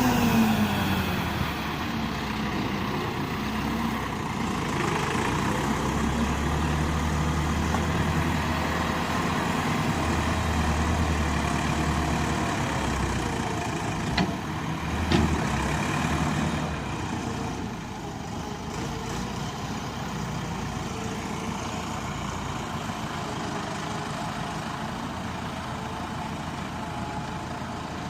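Massey Ferguson 385 tractor's diesel engine running, its revs dropping at the start and then running steadily. Two sharp knocks come about halfway through, and the engine sound drops a little soon after.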